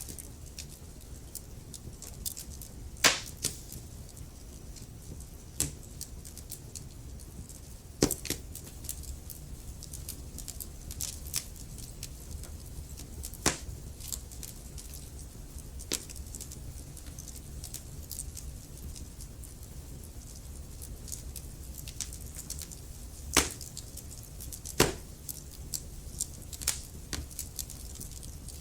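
Wood fire crackling in a fireplace: burning logs give many small ticks and a handful of louder sharp pops, over a steady low rumble of the flames.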